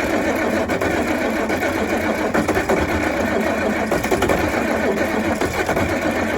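Electric starter running steadily on a Massey Ferguson 1105's Perkins 354 diesel during a cold start without ether. The engine does not catch, and the sound cuts off just after the end. The owner blames bald spots on the flywheel ring gear.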